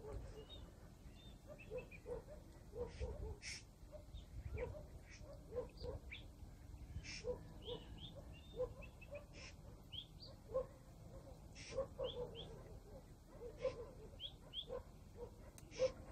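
Faint evening chorus of several birds: scattered short chirps and whistled notes, over repeated short, lower-pitched calls.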